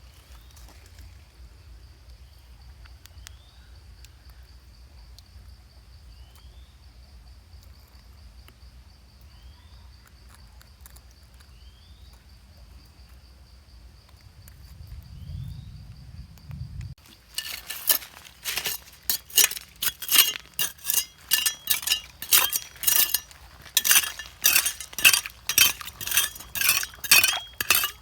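Hard stones or crystals knocking and clinking together in rapid sharp strikes, two or three a second, starting about two thirds of the way in. Before that there is only a faint steady high-pitched hum with a few faint short chirps.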